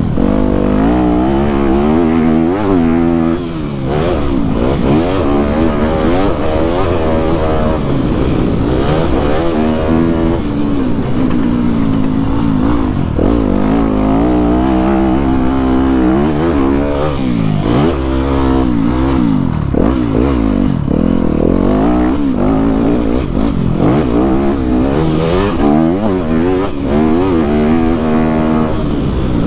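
Dirt bike engine ridden hard around a motocross track, its pitch climbing and dropping every couple of seconds as the throttle is opened and shut through jumps and corners.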